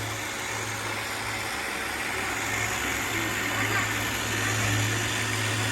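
Robot vacuums running: a steady low motor hum under an even hiss of suction.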